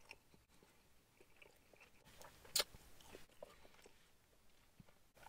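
Faint chewing of a mouthful of peri peri chicken: soft wet mouth clicks, with one sharper click about two and a half seconds in.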